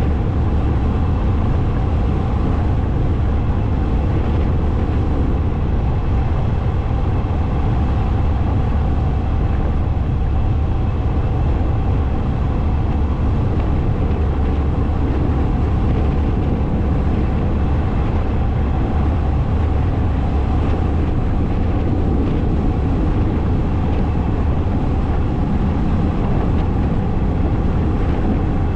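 Motorcycle engine running steadily while it is ridden at a constant pace, under a heavy, even low rumble.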